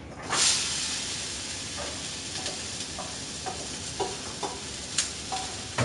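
Small-diced potatoes for a breakfast hash going into a pan of hot olive oil: a sudden loud sizzle, then a steady sizzle with the light knocks of a utensil stirring them.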